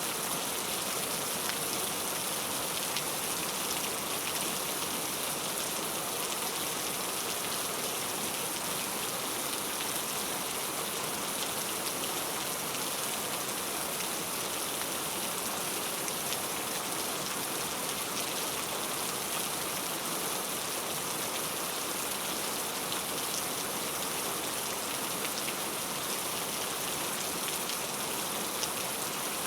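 Heavy rain falling steadily, a dense even hiss with fine drop patter and no change in intensity.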